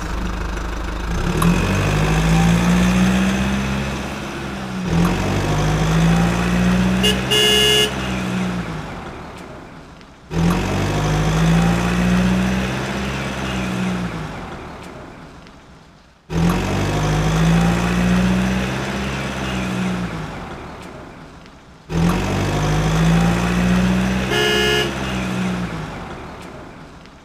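A heavy vehicle engine sound revving up and easing off, repeated five times, each pass starting loud and fading out. A short horn beep sounds twice, during the second and the fifth pass.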